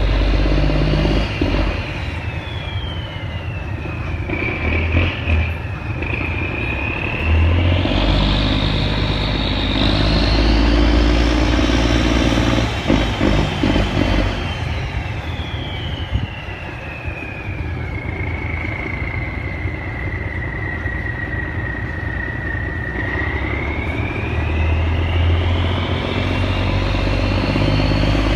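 Cummins diesel boat engine running under changing throttle as the boat manoeuvres, with a high whistle rising and falling alongside it. The engine and whistle climb about a third of the way in, sink low and hold there past halfway, and climb again near the end.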